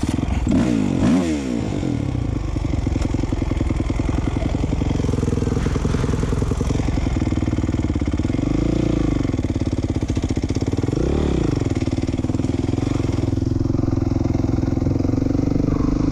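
A 450R motocross bike's single-cylinder four-stroke engine idling steadily after a hard restart, its pitch dropping about a second in and briefly rising and falling twice, about nine and eleven seconds in.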